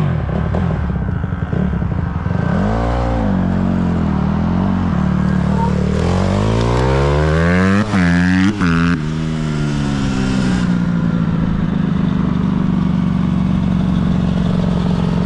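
Dirt bike engine running while riding. It revs up and drops back a few seconds in, then climbs steadily to a peak about eight seconds in with a couple of brief cuts, falls away, and holds a steady drone to the end.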